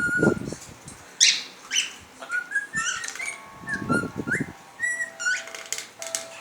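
Cockatiels whistling and calling: many short whistled notes that slide up or down, mixed with harsher screechy calls, one of them loudest a little over a second in. Low rumbling bursts come at the start and again about four seconds in.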